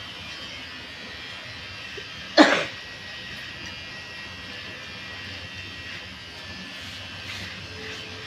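Electric hair clippers buzzing steadily. About two and a half seconds in, one short, loud burst of breath, like a cough, stands out above the buzz.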